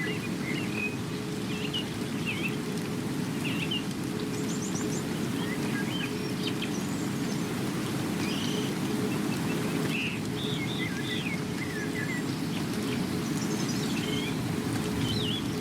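Many small birds chirping and calling in short, varied notes and quick trills throughout, over a steady low rushing background noise.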